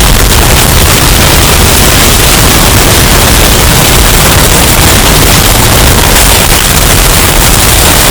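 Hurricane storm sound effect, bass-boosted and clipped into heavy distortion: a steady, very loud wall of wind noise heaviest in the bass, with no letup or distinct events.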